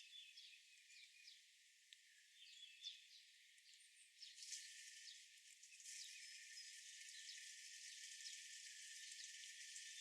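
Faint outdoor ambience: small birds giving short chirps, over a steady hiss that grows louder about halfway through.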